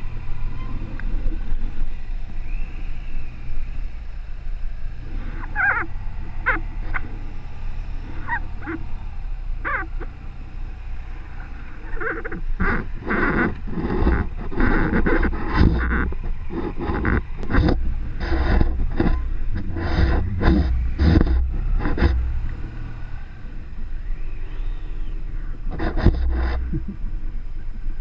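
BMW R1200R's flat-twin boxer engine running at low speed with a steady low rumble. Through the middle stretch, and once more near the end, come bursts of irregular sharp clatters and knocks.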